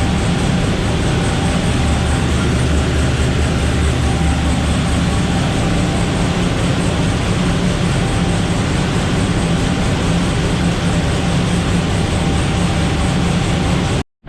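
Twin-turbo LS V8 drag car engine running loud and steady at a constant speed, with no revving, then cutting off suddenly near the end.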